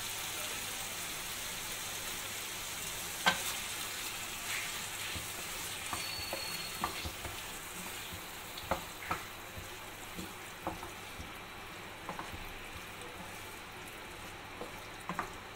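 Chicken and capsicum sizzling in sauce in a pan while a wooden spatula stirs them, with a steady frying hiss and scattered sharp knocks of the spatula against the pan.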